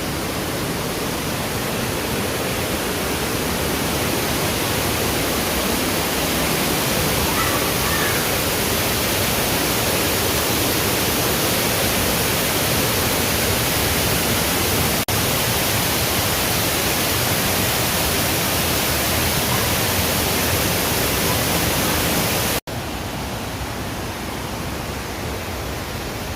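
Loud, steady rush of falling water from a waterfall, an even hiss with no pitch to it. Near the end it breaks off for an instant and comes back a little quieter.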